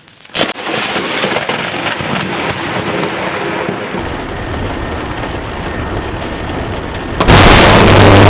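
A sharp crack of a close lightning strike, followed by heavy rain and rumbling thunder. About seven seconds in, the noise jumps suddenly to a much louder, harsher level.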